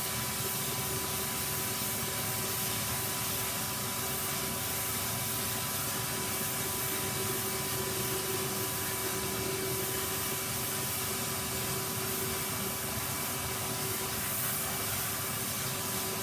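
Vacuum cleaner running steadily: a constant rushing hiss with a few held motor tones.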